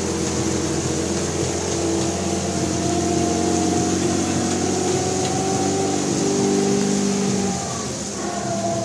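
A tourist tram's engine running steadily as it drives along, a hum of several steady tones over road noise that eases off a little near the end.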